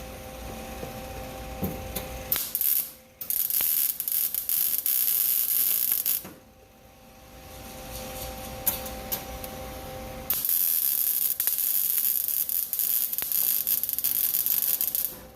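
MIG welder arc crackling and sputtering in two runs of about four to five seconds each, short stitch welds on the truck's sheet-metal floor pan. A steady hum sounds in the pauses.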